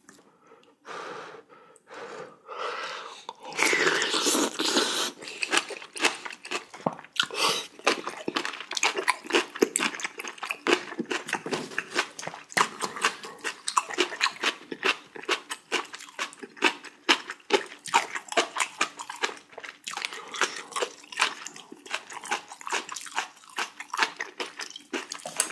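Close-up eating sounds: mouthfuls of kimchi and broth-soaked rice being chewed with rapid, crunchy chewing. A louder, noisy stretch comes about four seconds in.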